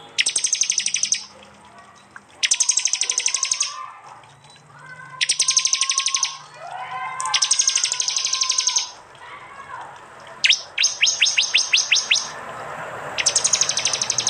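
Prenjak (prinia) calls: loud, very rapid high trills in bursts of about a second, repeated every couple of seconds. About two-thirds through comes a run of separate sharp high chips at about seven a second. Fainter, lower bird calls sound underneath.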